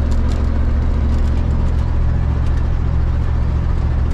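1979 Ford F-150's V8 engine running under way while the truck is driven, a steady low drone with road noise.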